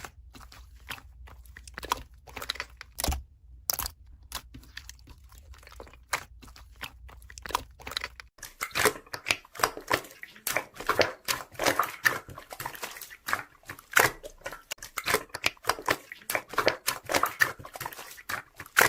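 Hands squishing and poking slime, making a quick run of sticky pops, crackles and squelches. About eight seconds in the sound changes abruptly: a low background hum drops away and the pops become louder and denser.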